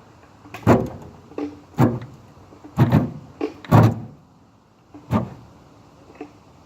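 Hand come-along being ratcheted to pull a strap around a front wheel seized by stuck brake linings. It gives a series of sharp metal clunks with a short ring, roughly a second apart, some with a lighter click just before.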